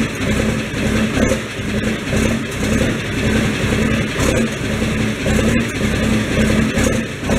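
An engine running steadily, with a low pulse repeating about twice a second.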